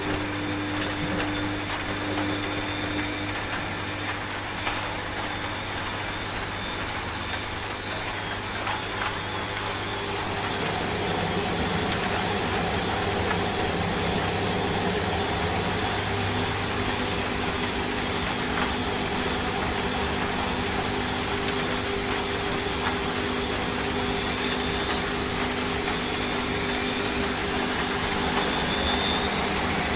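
Washing machine running steadily with a low hum over a hiss of rain. It grows slightly louder about ten seconds in, and near the end its motor whine rises steadily in pitch as the drum speeds up.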